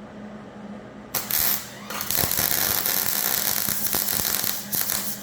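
Electric welding arc crackling and sizzling as a steel bracket is welded: a short burst about a second in, then after a brief pause a longer steady run of crackle that breaks off briefly a couple of times near the end.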